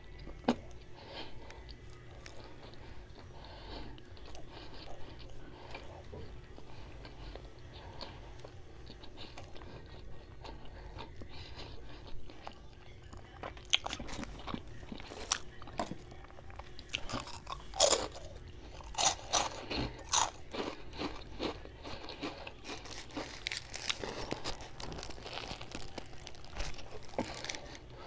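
Close-up chewing and crunching of food, with small wet mouth clicks throughout. About halfway through, loud crunchy bites set in, followed by another cluster of crunches near the end.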